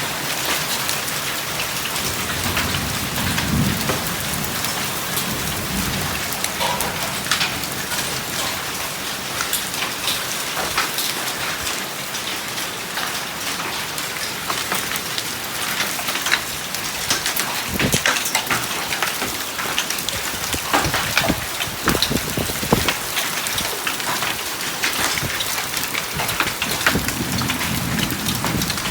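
Heavy rain mixed with hail, with many sharp clicks and knocks of hailstones striking hard surfaces over a steady roar of rain. Low rumbles of thunder come about three seconds in and again near the end.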